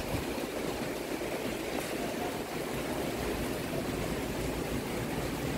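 Steady rushing noise of storm wind and water, with no distinct events.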